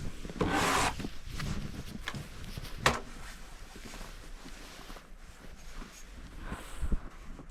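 Footsteps in fresh, fluffy snow, with a short rustle about half a second in and a sharp knock near three seconds.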